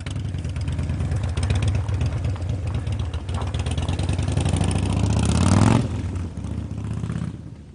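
Yamaha FJR1300 sport-touring motorcycle's inline-four engine running under way. The revs climb for about a second, about five seconds in, then drop off abruptly. The engine fades out near the end.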